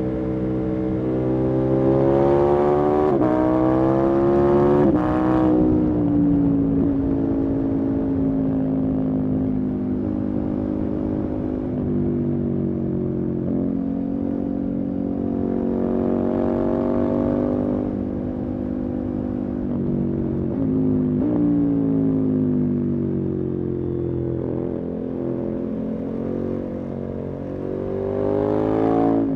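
Motorcycle engine under way, its pitch climbing as it accelerates and dropping sharply at gear changes: two quick upshifts a few seconds in, then a long steady cruise with the pitch easing down, and further climbs cut short by shifts about two-thirds through and near the end.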